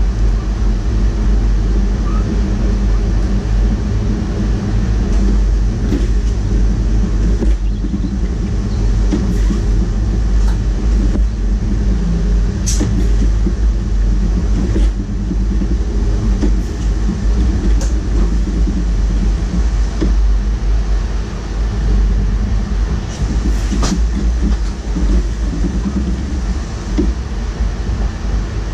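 Cab noise of a DDAR double-deck push-pull train on the move: a steady low rumble and hum from the running gear and traction, with a few sharp clicks and knocks scattered through it.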